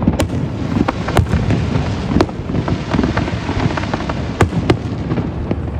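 Fireworks display: a fast, unbroken run of aerial shell bursts, with sharp cracks several times a second over continuous booming.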